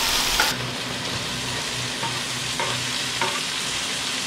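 Corned beef hash with potatoes and onions sizzling steadily in a frying pan, with a few light taps as chopped bell peppers are pushed off a wooden board into the pan with a spatula.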